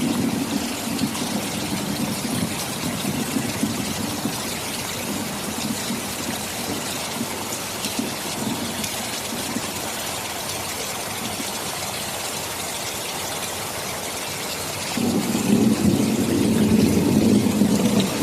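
Steady heavy rain with a low rumble underneath that fades after a few seconds and comes back suddenly and louder about 15 seconds in.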